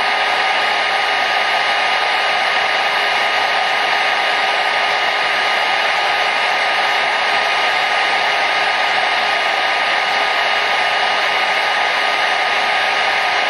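Hair dryer running continuously, an even, steady rushing hiss with a faint motor hum under it and no change in pitch or level.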